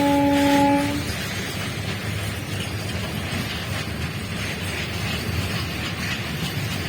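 Train horn sounding one steady tone and cutting off about a second in, followed by a steady low rumble with hiss.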